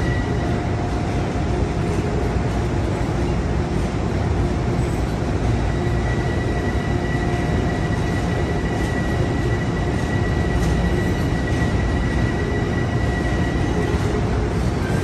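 A train at a station platform: a steady rumble with a few steady whining tones over it.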